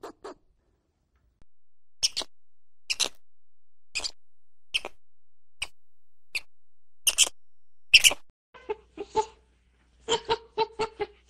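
Eurasian red squirrel giving about a dozen short, sharp, high-pitched calls, singly and in pairs, spaced roughly half a second to a second apart. About two thirds of the way through, a quicker run of short pitched monkey calls from Barbary macaques takes over.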